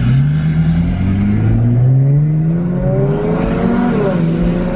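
Car engine accelerating hard. Its pitch climbs steadily, drops back about a second and a half in and again near the end as it shifts up, then climbs again.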